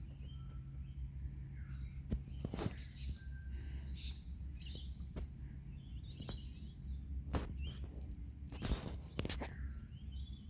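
Birds chirping over a steady low hum, with scattered knocks and scuffs from handling, the sharpest a little past halfway and near the end.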